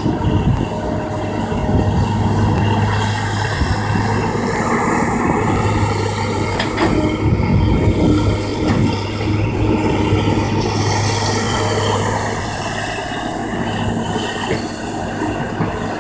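Kobelco excavator working: its diesel engine runs with a steady drone, with high whining tones that rise and fall over it and a single sharp metallic clank about seven seconds in.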